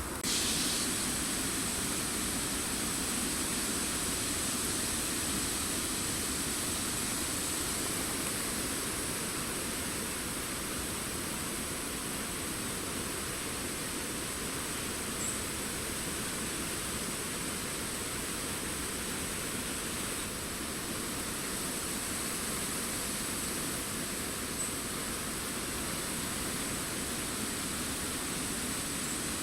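Steady, even hiss of wind in forest foliage, with two faint short high chirps far apart.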